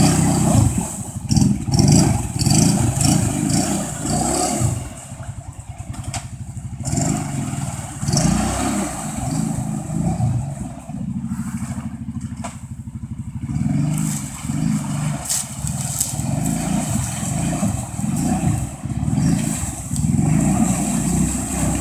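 ATV (quad) engine revving in repeated surges while wading through deep river water, the exhaust note louder than anything else. It eases off twice before picking up again.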